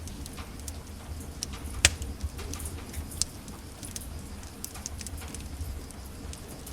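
Wood fire in a fireplace crackling: irregular pops and snaps over a low steady rumble, with the sharpest snap about two seconds in.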